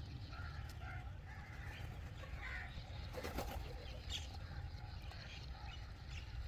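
Birds outdoors: scattered short calls, with a few sharp clicks and flutters around the middle. A low steady rumble runs underneath.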